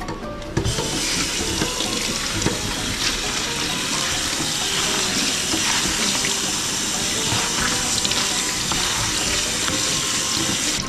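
Crumbed fish sizzling in butter in a hot frying pan: a steady, dense hiss that starts abruptly about half a second in.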